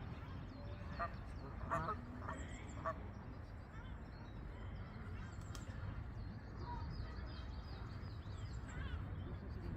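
Waterfowl honking: a few short calls bunched about one to three seconds in, with small birds chirping faintly over a steady low rumble.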